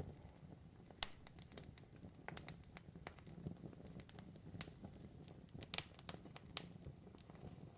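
Wood campfire crackling, with irregular sharp pops over a low, steady rumble of the flames; the sharpest pop comes about a second in.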